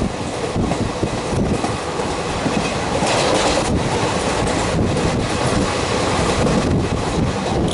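Passenger express train passing at speed: a loud, steady rush and rumble of coaches on the rails, with wheel clatter over the rail joints and brief dips in the noise now and then.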